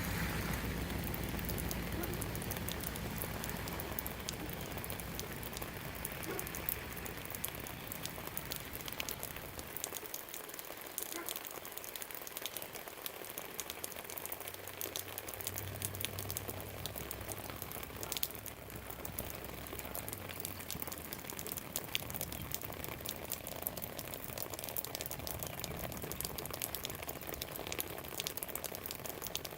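Steady rain falling and dripping, with many individual drops ticking sharply. A low rumble sits under it at first and fades away about a third of the way in.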